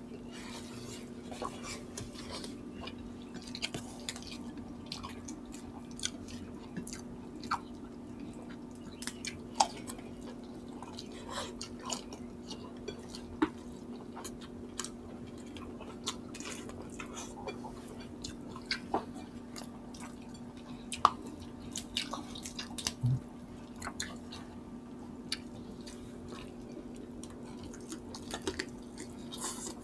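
Close-miked eating sounds from two people chewing chicken and rice: wet chewing and lip smacks, with sharp little clicks every second or two over a steady low hum.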